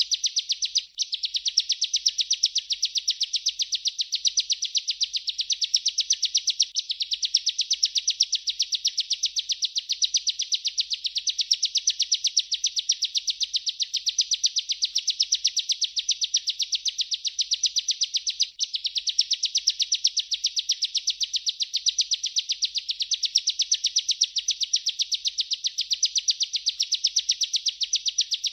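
Bar-winged prinia (ciblek) singing its rolling 'ngerol' song: a very fast, continuous trill of high ticks. It pauses only briefly about a second in and again around two-thirds of the way through.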